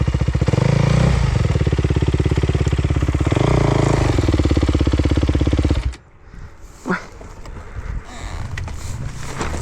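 Off-road motorcycle engine running close by, revving up twice, then cut off abruptly about six seconds in, leaving a much quieter background.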